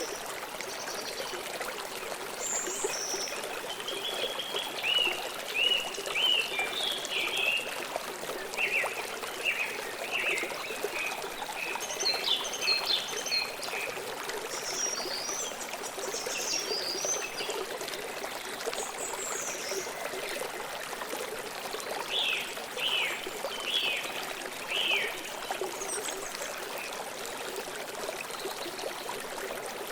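River water flowing steadily over stones, with small birds chirping in several short runs of quick notes over it.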